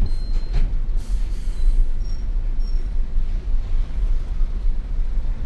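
Steady low rumble of a Hino FL 260 JT truck's diesel engine and drivetrain, pulling a 33-ton load of coal.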